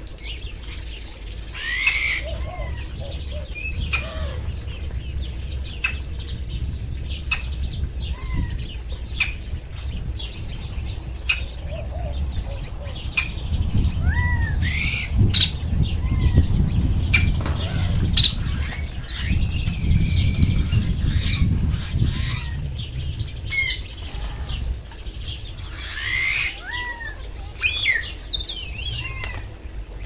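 Small birds chirping with many short, arched notes scattered throughout, plus a longer wavering call near the middle, over a steady low rumble.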